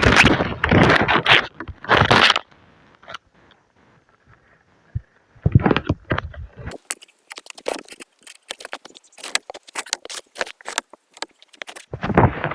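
Gear being handled by hand: loud rustling and scraping bursts, then a quick run of sharp clicks and crackles in the middle, and another rustle near the end.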